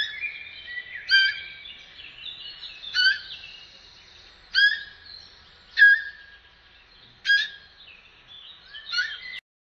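Seven short, sharp high calls, each sweeping quickly down in pitch, repeating about every one and a half seconds over fainter continuous chirping like birdsong.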